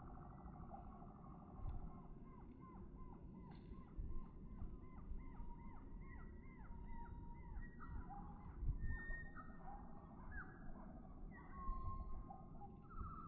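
Songbirds singing and calling over a steady low rumble. For several seconds one bird repeats a quick series of short arching notes, and then assorted whistles and trills follow.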